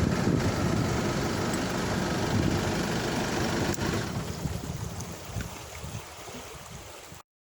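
Vehicle running along a road with steady rumbling road and wind noise, easing off about halfway through, then cutting off abruptly near the end.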